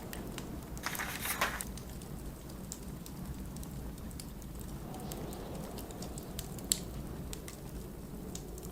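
Steady low blizzard wind with a wood fire crackling and popping throughout, one sharp pop near the end. About a second in, a book page turns with a brief papery rustle.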